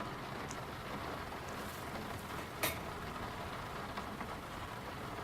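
Steady hiss of rain, with one short knock about two and a half seconds in.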